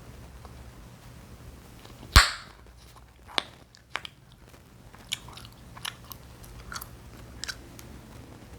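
Chewing gum popped and snapped in the mouth close to the microphone: one very loud pop about two seconds in, then two smaller snaps and a run of softer wet chewing clicks.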